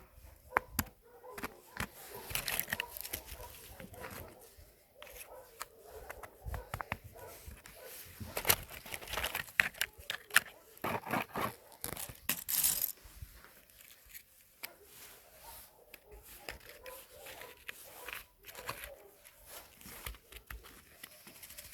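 Irregular rustling and crackling with many sharp clicks, busiest in the middle.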